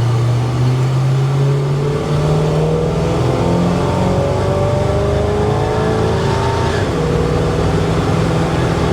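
1970 GMC K10 pickup running down the road. The engine pitch climbs steadily as the truck accelerates through a gear and drops back about seven seconds in, over steady road noise.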